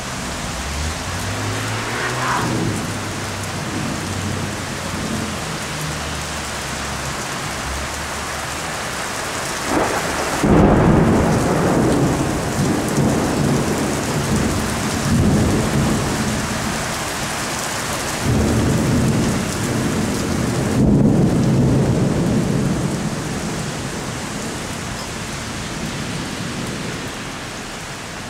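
Thunderstorm: steady heavy rain with rolling thunder. A sharp crack about ten seconds in is followed by long rumbling, and a second long peal comes near the two-thirds mark before fading.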